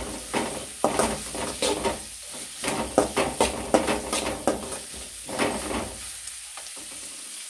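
Chopped onions and crushed garlic frying in oil in a metal kadai, sizzling while a metal spatula stirs and scrapes them against the pan in quick runs of strokes. The scraping thins out over the last second or so, leaving the sizzle.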